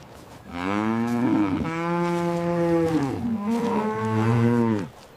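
Cow mooing: a long moo starting about half a second in, then a lower-pitched moo that ends just before the end.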